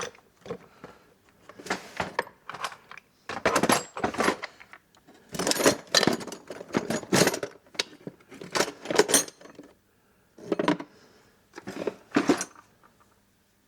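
Small metal screwdriver bits clinking and rattling as they are picked through in a bit set, in irregular clusters of sharp clicks.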